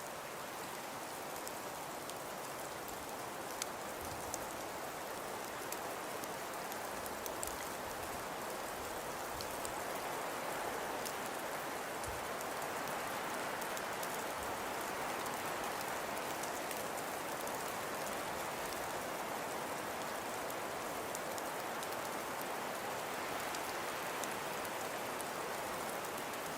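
Wet precipitation falling steadily on surfaces: an even hiss with scattered light ticks, slowly growing a little louder.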